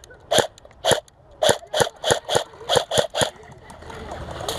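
Airsoft gun firing single shots, about nine sharp pops over three seconds at an uneven rate.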